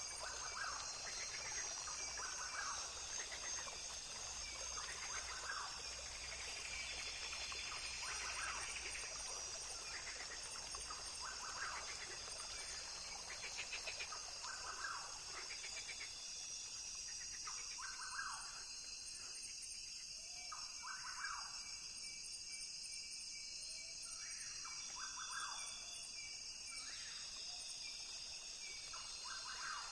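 Rainforest ambience: a steady high insect drone with short animal calls repeating every second or two.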